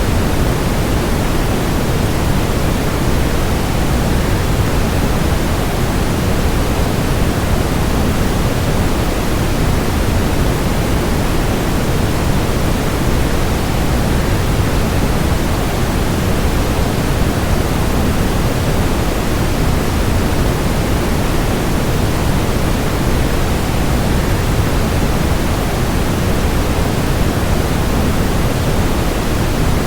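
Steady, unchanging rushing noise of a waterfall blended with white noise, heaviest in the low range.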